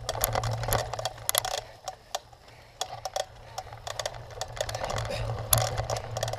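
Bicycle ridden over rough ground: a quick, irregular clatter of clicks and rattles from the chain and frame, over a steady low hum of tyres and wind.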